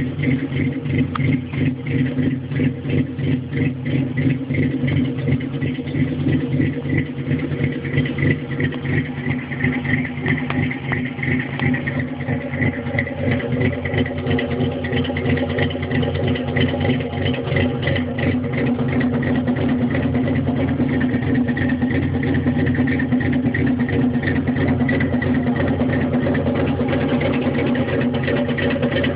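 1962 Datsun L320 pickup's engine idling, its loudness pulsing unevenly for the first half and then settling into a steadier, slightly louder run.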